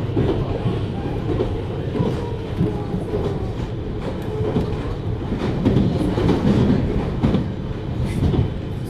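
JR Hokkaido 733 series electric train running along the track: a steady low rumble of wheels on rail with scattered short knocks from the track.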